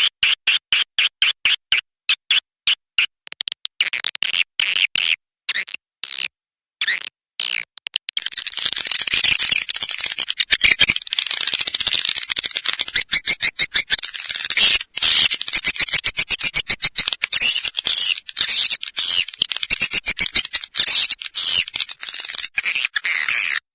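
Recorded swiftlet lure call, made of edible-nest swiftlet sounds. For about the first 8 seconds it is a fast run of sharp clicks with a few short breaks; then a dense, unbroken twittering chorus of high chirps takes over. This is the kind of call track played in a swiftlet house to draw swiftlets in to roost and nest.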